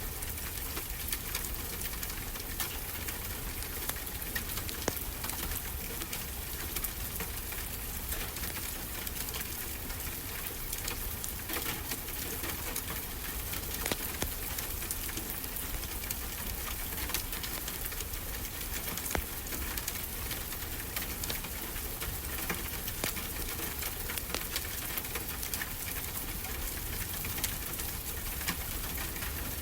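Wood fire crackling with frequent small, sharp pops over a steady wash of ocean waves.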